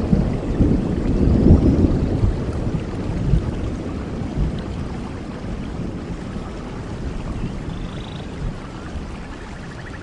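Rain falling with the low rumble of thunder dying away, fading over the few seconds; a few faint bird chirps sound near the end.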